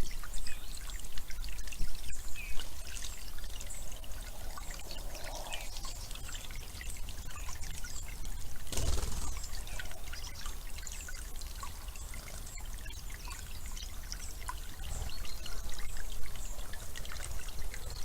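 Shallow water trickling and pouring, with small splashes from a bird bathing in it, and one brief louder splash about halfway through.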